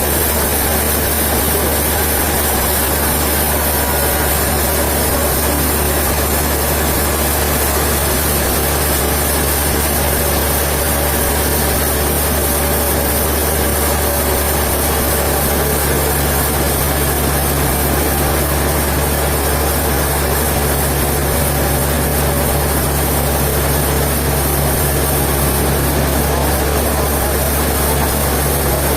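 Heavy engine-driven sawmill machinery running steadily with a deep hum. A second, slightly higher hum joins about halfway through.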